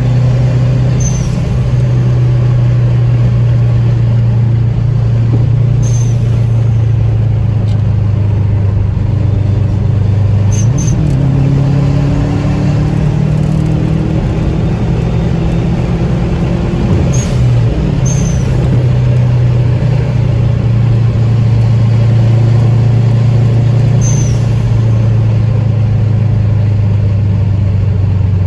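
Car engines running steadily in a low drone, the pitch shifting about ten seconds in and again around seventeen seconds, with a few short high chirps over it.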